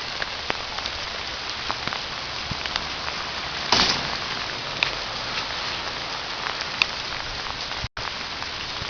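Hard rain falling steadily, with single drops ticking close by and a brief louder burst about four seconds in. The sound cuts out for an instant near the end.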